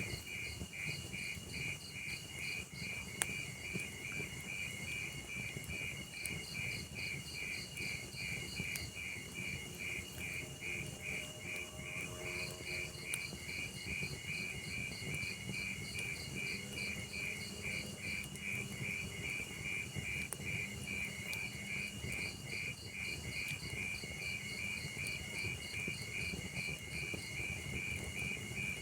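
Crickets chirping in a steady, rapid pulsing rhythm of several chirps a second, over the low rumble and occasional faint pops of a log fire.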